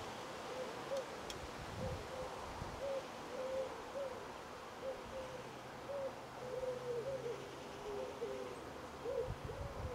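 Birds calling in the background: a series of short, low hoot-like notes repeating irregularly, at times two calling over each other.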